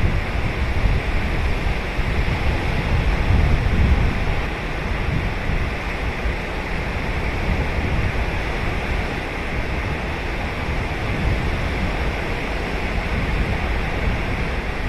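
Ocean surf breaking and washing on a sandy beach, a steady wash of noise with low rumbling surges as waves break, loudest about four seconds in. Wind buffets the microphone in low gusts.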